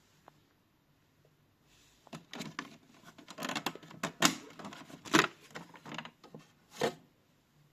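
Handling of a Miele W1 toy washing machine: a run of irregular clicks and knocks lasting about five seconds, loudest around the middle.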